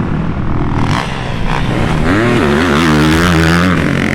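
Dirt bike engine running and revving, its pitch rising and falling through the second half.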